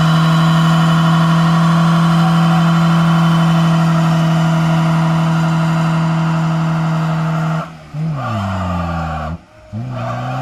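Car engine held at steady high revs during a burnout. Near the end the revs fall away and the sound briefly drops out twice, then the engine climbs straight back to the same held pitch.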